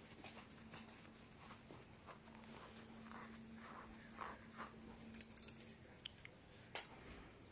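Faint scattered clicking, nibbling and scratching from a pet parrot, with a few sharper ticks in the last couple of seconds, over a low steady hum.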